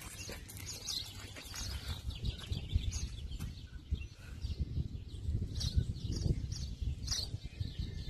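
Small birds chirping, short high chirps repeated roughly once a second, over a low, uneven rumble.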